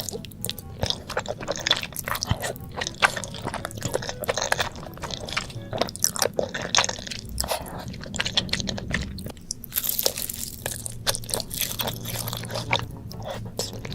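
Close-miked eating sounds: a person crunching and chewing food in a rapid, irregular run of crisp crackles and mouth noises.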